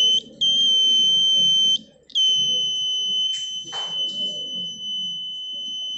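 Buzzer of a homemade rain detector sounding a steady, high-pitched tone, set off by water bridging its two blade contacts. It cuts out twice in the first two seconds and then sounds without a break, with a short rustling noise about three and a half seconds in.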